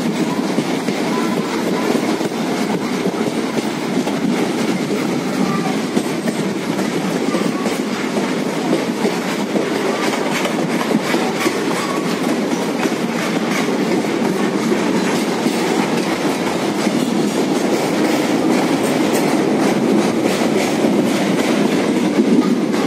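Train wheels running on the rails at speed, heard from the window of a moving coach: a steady rumble with many quick clicks over the track.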